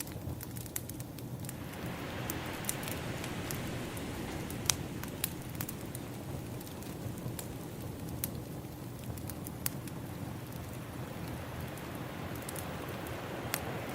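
Wood fire crackling with scattered sharp snaps and pops, over ocean waves washing in. The waves swell up about a second and a half in and again in the second half.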